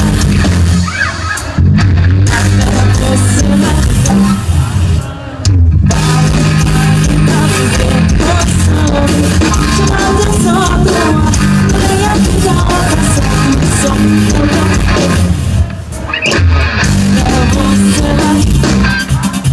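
Live pop band playing loudly, with bass, drums and guitar, and three brief breaks in the music.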